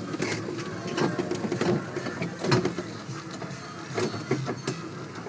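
Ride-on train rattling and clacking as it rolls, with irregular sharp clicks and knocks over a faint steady hum.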